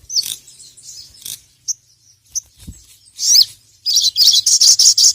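Sogon (sogok ontong, a sunbird) singing: scattered high chirps and twitters, then from about four seconds in a loud, fast run of repeated high chirps, about eight a second, the rapid 'ngeriwik' song of a bird calling a rival.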